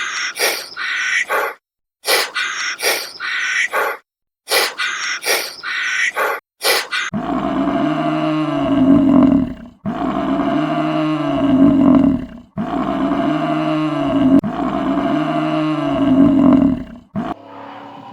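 A run of short, rapid animal calls, then a large animal giving four long, deep roaring calls in a row, each about two and a half seconds long and almost identical.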